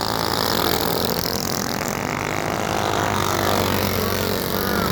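Several racing minibikes' small engines running at high revs together, their pitches overlapping and shifting as they go by.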